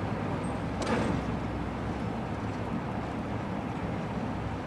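Heavy pile-driving rig machinery running with a steady low rumble, and one sharp metallic knock about a second in.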